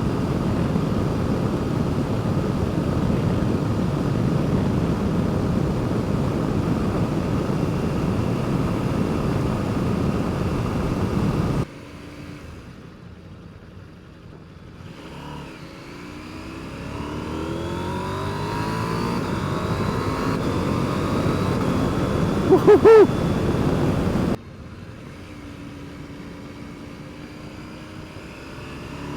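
KTM 790 Adventure's parallel-twin engine accelerating hard on the road, its pitch rising as it revs up, twice, with heavy wind rush over the first part.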